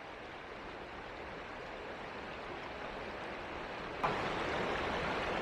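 Stream water rushing steadily over the rocks. It grows slowly louder, then steps up suddenly about four seconds in and holds at the higher level.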